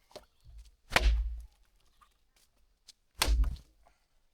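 Two heavy, sharp blows about two seconds apart, each with a deep thud, part of a steady series of strikes.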